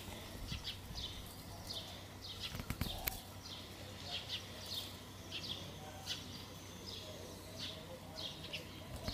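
Small birds chirping, short high notes in irregular runs of two or three a second, over a faint steady background hum, with a few clicks between two and three seconds in.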